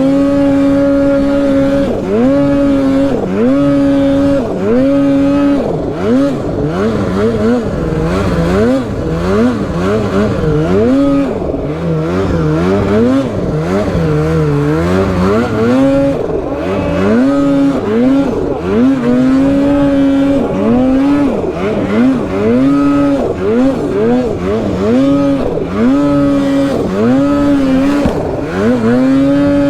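Polaris Boost two-stroke snowmobile engine revved hard, over and over: the throttle is held at high revs for a second or so, then chopped and blipped again, as the sled is worked through deep, tight, trenched snow.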